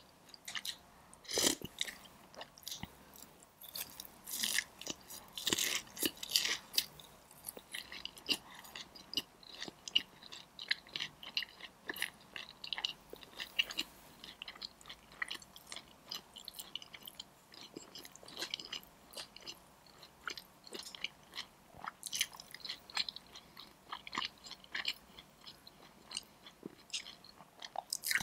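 Close-miked eating of crispy Korean fried chicken: a sharp crunching bite about a second and a half in, then crunchy chewing with many small irregular crackles.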